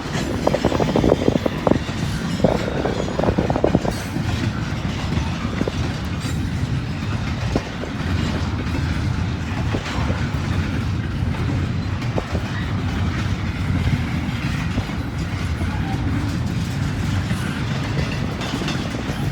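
Cars of a long Norfolk Southern intermodal freight train rolling past at close range: a steady low rumble with wheel clatter, and a few brief sharp metallic squeals and clanks in the first four seconds.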